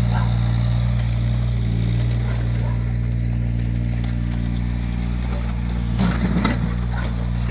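Yanmar ViO17 mini excavator's three-cylinder diesel engine running steadily, with a brief, louder rough sound about six seconds in.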